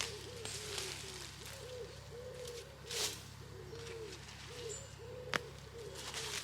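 Birds calling: a steady run of many short, low, arched calls that overlap one another. A brief rustle comes about three seconds in and a sharp click just after five seconds.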